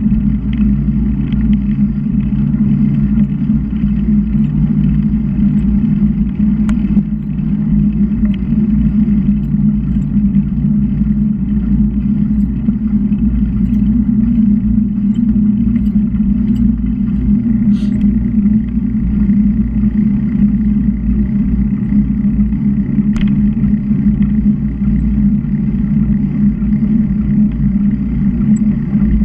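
Wind rushing over the microphone of a camera riding along on a bicycle: a loud, steady low rumble, with a few faint ticks.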